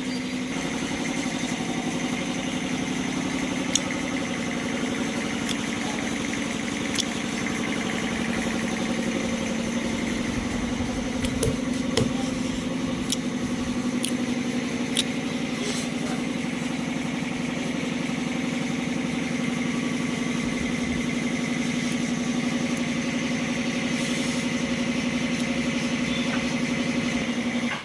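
A machine's engine or motor running steadily with a constant hum and a few light clicks, stopping abruptly near the end.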